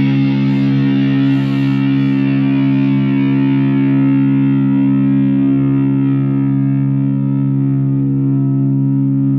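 Chapman SAR63 electric guitar through distortion, one chord struck just before and left to ring out, its bright top slowly fading while the low notes hold steady.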